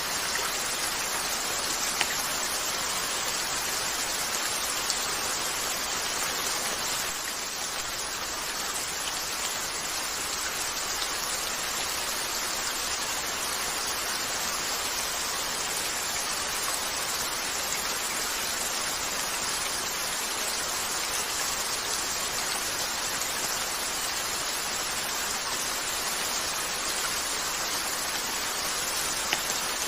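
Steady rain falling on a window: a continuous, even hiss. A few sharp crackles from a log fire stand out here and there.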